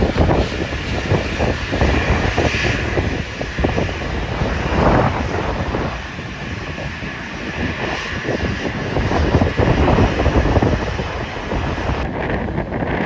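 Airliner engines roaring, heard through heavy gusting wind buffeting on the microphone; the sound changes abruptly near the end.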